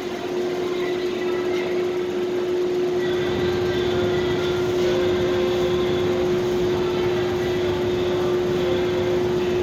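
Steady machinery hum of a parking lot: a constant humming tone over an even wash of noise, typical of ventilation fans and running equipment, with faint higher tones coming and going.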